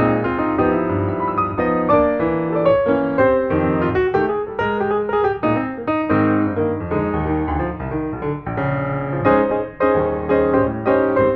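Instrumental piano music: a steady run of notes and chords.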